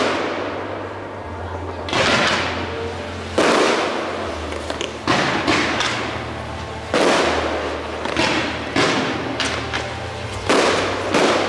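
Aerial firework shells bursting overhead: a sharp bang every one to two seconds, about eight in all, each trailing off in an echo.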